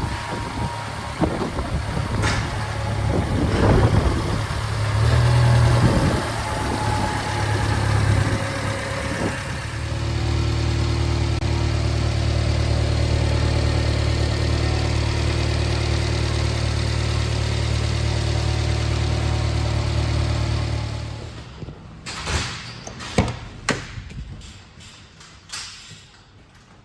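Subaru Sambar mini truck's small engine idling steadily, with some knocks over it at first. A little after 20 seconds in it falls quiet, and a few sharp clicks and knocks follow.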